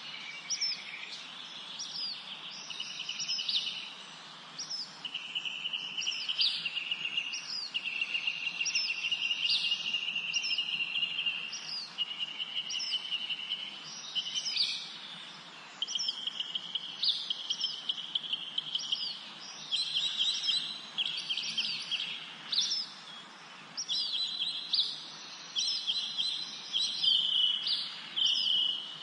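Several birds singing together in a spring forest: short high chirps repeating every second or so, overlapping longer trilled phrases that last a second or two, over a steady background hiss.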